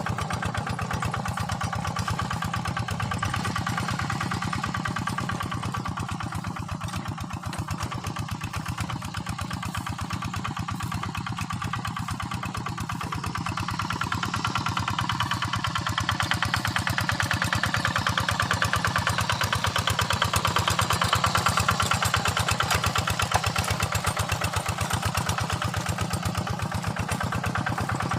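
Quick Impala two-wheel hand tractor's engine running steadily under field work, with rapid even firing pulses. It gets louder past the middle of the stretch, then eases slightly near the end.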